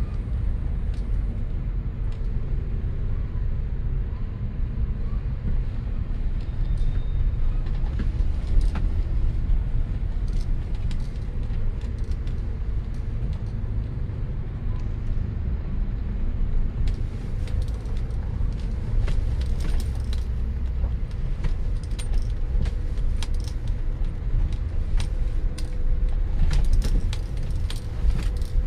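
Steady low rumble of road vehicle noise with many short rattles and clicks, which come thicker in the second half.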